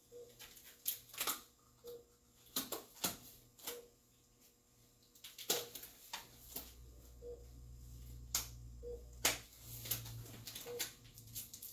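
Scattered clicks and light clatter of surgical supplies and instruments being handled, with a short soft beep repeating about every two seconds and a low hum rising in the second half.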